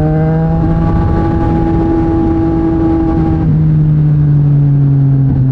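Yamaha MT-09 SP's three-cylinder engine running through a Mivv X-M50 aftermarket exhaust while riding. It pulls with a slightly rising note, then drops to a lower, steady note about three and a half seconds in, as the throttle eases or a gear changes. Wind noise rumbles on the microphone throughout.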